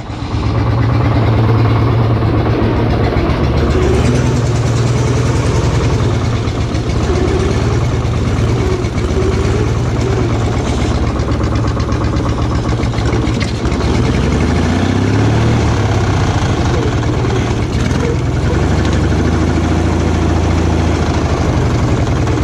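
Offroad lawn tractor's twin-carb engine, straight-piped on one side, running loud just after starting, its pitch rising and falling as it is driven up through the gears.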